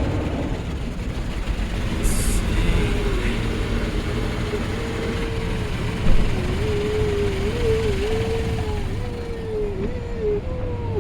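Automatic car wash machinery and water working over the car, heard from inside the car: a steady low rumble, with a brief hiss about two seconds in and a wavering tone through the second half.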